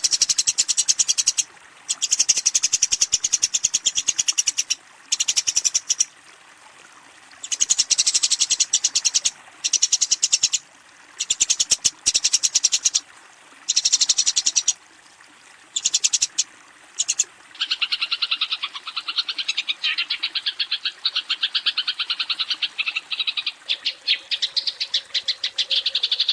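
Eurasian tree sparrow giving rapid, harsh chattering calls: the agitated fighting call used to challenge a rival. The calls come in bursts of a second or two with short pauses, then run on without a break, a little lower, from about two-thirds of the way through.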